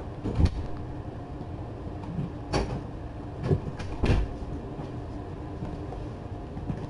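Kittens scampering, with a few sharp thumps and knocks as they bound about, over a steady low background hum.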